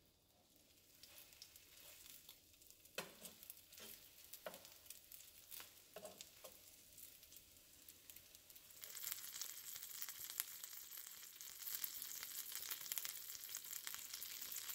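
Butter and oil sizzling and crackling in a skillet around egg-dipped French toast roll-ups frying on low heat. A few light clicks of metal tongs against the pan come in the middle, and the sizzle grows louder and denser about nine seconds in.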